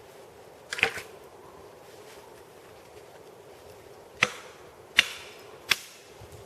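Sawn log sections knocking against each other as they are dropped onto a pile. There are sharp wooden knocks: a short clatter about a second in, then three single knocks about three-quarters of a second apart near the end.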